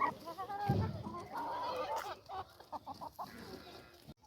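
Chickens clucking, a string of short calls with a few sharp clicks among them near the middle.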